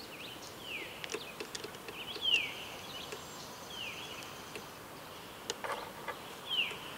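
A songbird calling repeatedly, a short whistle sliding downward in pitch, about four times, over steady outdoor background noise, with a few light taps and clicks.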